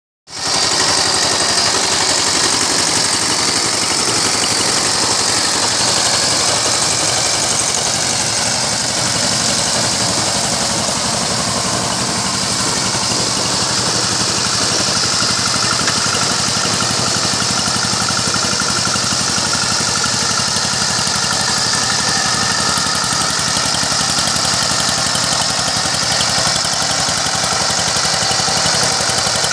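Power tiller engine running steadily while tilling, with a fast, even beat that holds at one speed.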